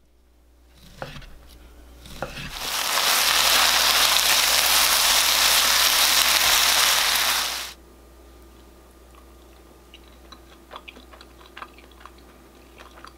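Fish cakes stir-frying in a hot pan with gochujang sauce: a loud, steady sizzle that starts about two and a half seconds in and cuts off suddenly about eight seconds in. Before it come a couple of sharp knife chops through fish cake on a cutting board, and after it only scattered faint clicks.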